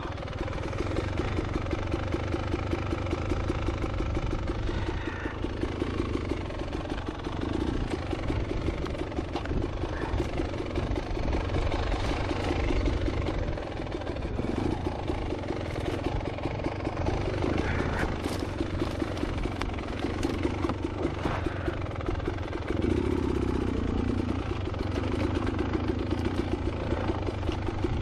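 Two-stroke engine of a Beta Xtrainer 300 dirt bike running while riding, its note rising and falling with the throttle, with a few sharp knocks along the way.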